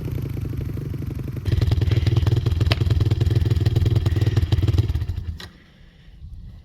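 Small single-cylinder pit bike engine running, getting louder with more throttle about a second and a half in, then cutting off about five and a half seconds in.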